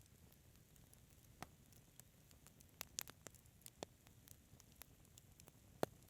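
Wood fire crackling softly: scattered sharp pops and snaps over a faint steady hiss, with a small cluster of pops about halfway through and one louder pop near the end.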